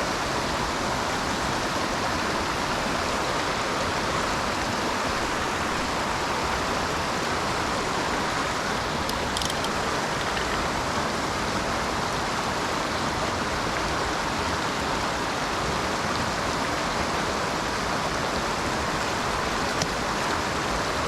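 Mountain torrent rushing steadily, an even wash of water noise that does not change.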